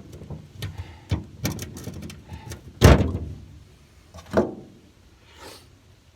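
Several sharp metal knocks and clunks from a ratchet and socket bit working a bed bolt in a pickup's steel bed floor. The loudest knock comes about three seconds in and another about a second and a half later.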